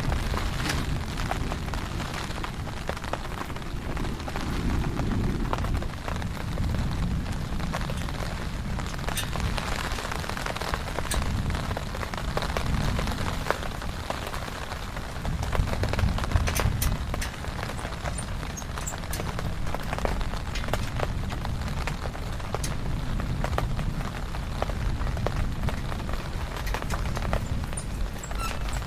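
Heavy rain falling steadily, with scattered sharp taps of drops striking close by. A low rumble swells and fades a few times underneath, the strongest swells coming about 4 and 16 seconds in.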